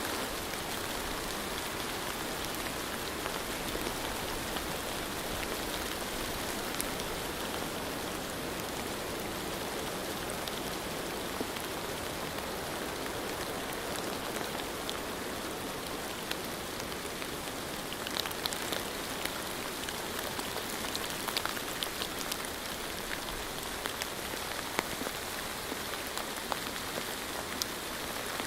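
Steady rain falling, an even hiss with scattered sharp drop ticks, a few more of them in the second half.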